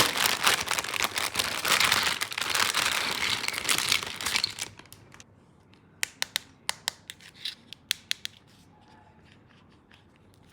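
Packaging being crinkled and torn open, dense and continuous, stopping about four and a half seconds in; then a scatter of light, sharp clicks and taps.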